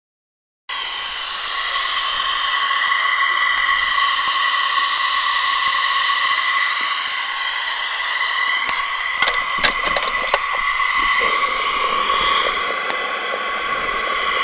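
Live-steam model locomotive blowing off steam: a loud steady hiss with a whistle-like ringing tone in it, the boiler at blow-off pressure. A few sharp clicks about nine to ten seconds in.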